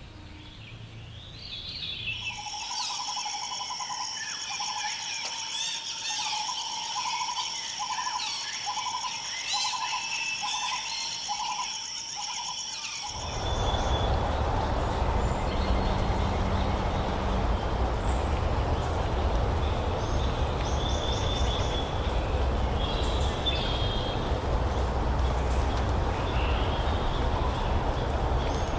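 Forest birds calling. A steady high-pitched buzz or trill and a lower call repeated about once a second run for the first half, then stop suddenly. After that a loud, steady rushing noise takes over, with scattered bird chirps above it.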